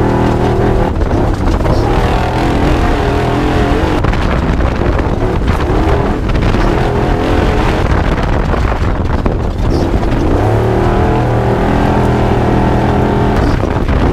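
Spec Trophy Truck's V8 engine running loud, with rough noise through the middle and the revs rising, then holding, near the end.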